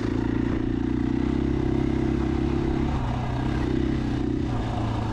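2021 KTM 500 EXC-F's single-cylinder four-stroke engine running as the bike is ridden along a trail, at a fairly steady pitch that dips briefly about three seconds in.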